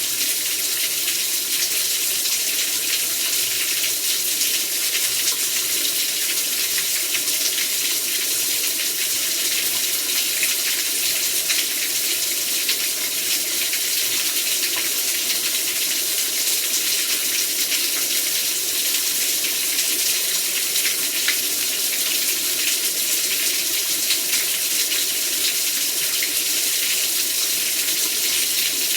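Very heavy rain pouring down steadily, a dense, unbroken hiss with fine crackle and no let-up.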